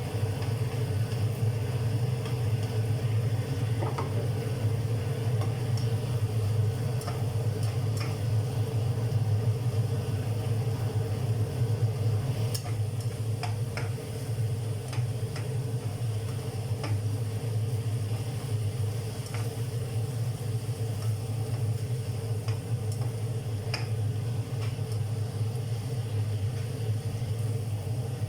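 Food being stirred in a pan, with scattered light clicks and taps of a utensil over a steady low hum.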